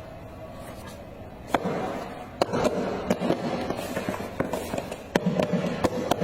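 A run of irregular sharp clicks and crackles, starting about a second and a half in, over a faint steady hum.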